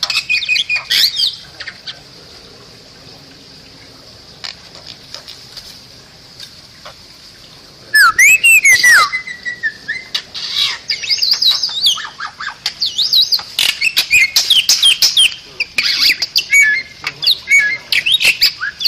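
Bali myna singing: sharp whistles and clicks, then a quieter pause. About eight seconds in comes a loud burst of rising and falling whistles, followed by a rapid run of whistled chatter and squawks.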